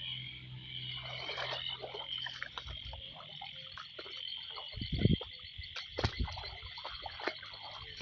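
Chorus of frogs calling after heavy rain: two kinds, a constant high-pitched trilling chorus of small frogs, like chorus frogs or spring peepers, and short, deeper, irregular calls of a bigger frog. A low thud about five seconds in.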